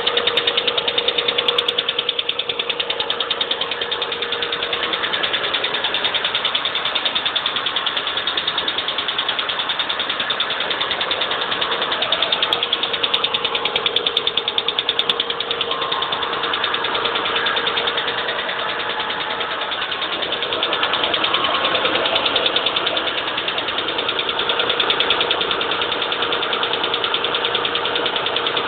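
Hyundai XG350's 3.5-litre V6 engine running with a fast, even ticking and a steady high tone over it, the noise whose cause the owner is asking about.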